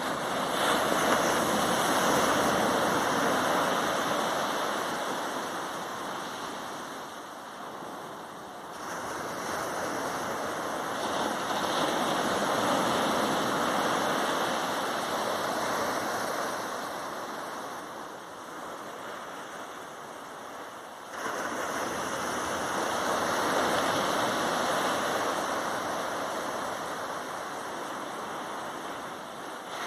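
Ocean waves breaking on sand: a rushing wash that swells and fades slowly, rising abruptly about a third of the way in and again about two-thirds through.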